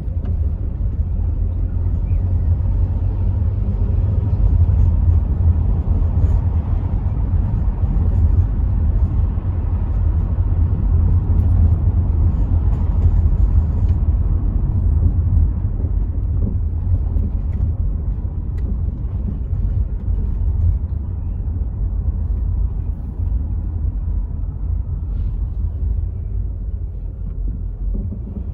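Rover 75 V6 estate on the move: a steady low rumble of engine and road noise with a haze of wind noise from partly open windows, growing a little louder in the first half and easing toward the end.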